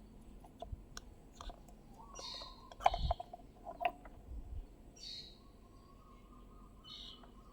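A bird chirping in the background, a short call repeated about every two and a half seconds, with a few sharp clicks and knocks in the middle.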